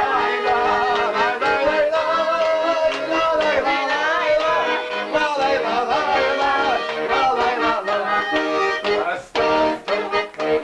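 Accordion playing a lively melody in an instrumental break between sung choruses, ending in a few short, choppy chords.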